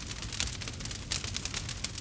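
Campfire crackling: a quick, irregular run of sharp pops and snaps from the burning wood over a low, steady rumble.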